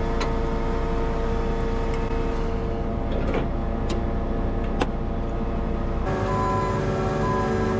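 Combine harvester's diesel engine running steadily, with a few sharp clicks. The engine note shifts suddenly about six seconds in.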